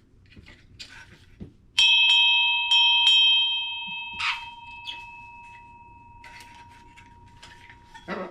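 A partly melted ship's bell struck four times in quick succession, about two seconds in, then ringing on and slowly fading over several seconds. A short knock follows a moment after the strikes.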